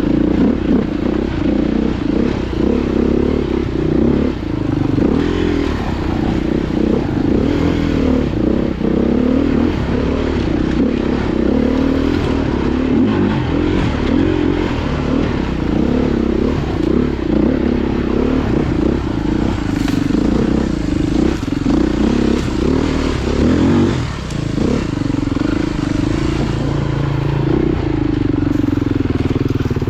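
Off-road motorcycle engine running continuously, its pitch rising and falling as the throttle is worked.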